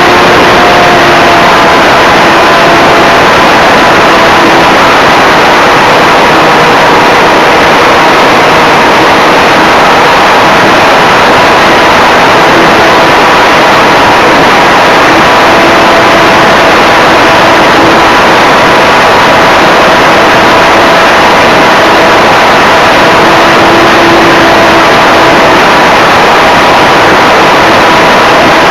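Electric brushless motor and propeller of an RC Cessna 182 model plane running steadily in flight, heard from an onboard camera. A loud, even rush of air noise covers it, with faint steady whining tones that waver slightly.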